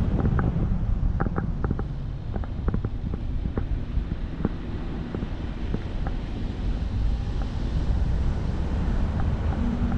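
Wind buffeting the microphone: a steady low rumble, with a scatter of light clicks in the first few seconds.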